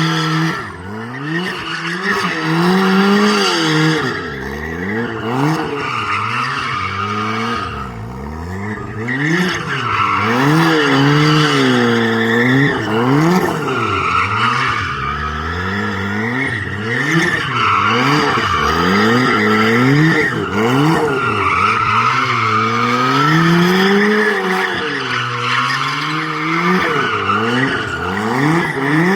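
Turbocharged Lotus Elise's 2ZZ four-cylinder engine revving up and down again and again while the rear tyres spin and squeal through donuts and slides.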